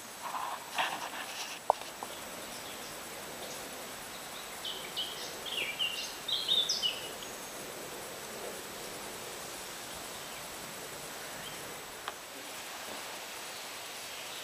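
A bird singing a quick run of short, high notes for a couple of seconds in the middle, over a faint steady background hush on the river. A few soft knocks and splashes come in the first two seconds, and a single click near the end.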